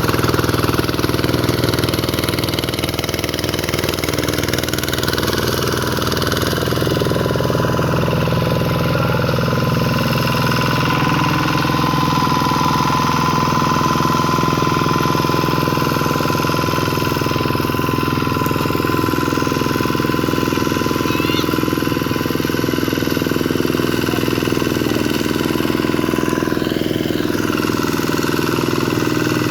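Single-cylinder diesel engine of a Vikyno RV125 hand tractor running steadily at an even speed.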